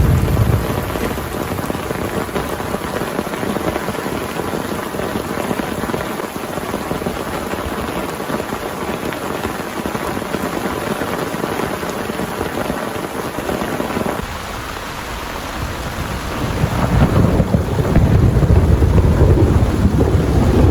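Heavy rain pouring steadily, with a deep rumble of thunder that builds about three quarters of the way through.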